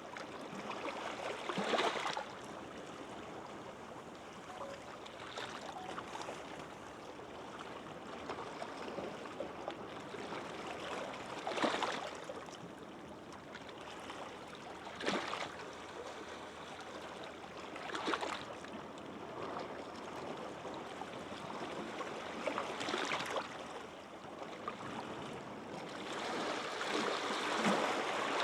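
Gentle sea waves washing onto a sandy beach: a steady hiss of water that swells louder about six times, every few seconds, as each wave breaks and runs up the shore.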